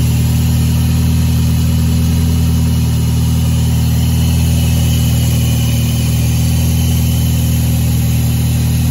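Toyota VVT-i four-cylinder engine idling steadily on a test run after a coolant refill.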